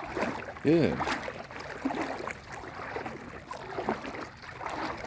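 Water splashing and sloshing around legs wading through floodwater, with uneven small splashes throughout.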